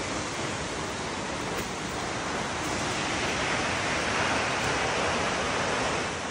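Steady rush of falling water from a waterfall, swelling a little louder in the middle.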